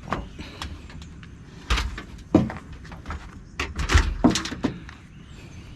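A string of knocks and clunks, about half a dozen, the loudest around two and a half and four seconds in, from a built-in wall microwave oven unit being handled and moved.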